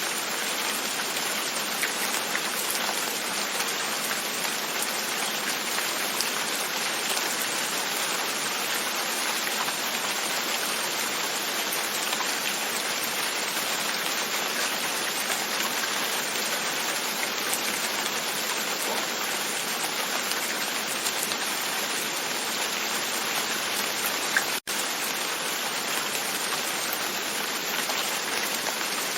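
Steady rain pattering on a window, an even, unbroken hiss of drops. There is one split-second dropout about three-quarters of the way through.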